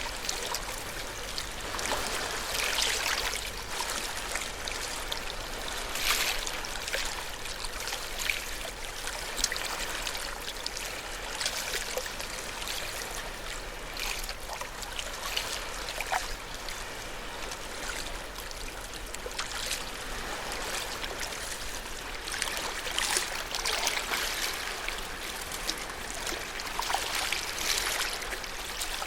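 Ocean waves: a continuous rush of water that swells and eases every few seconds, with fizzing, trickling wash between the swells.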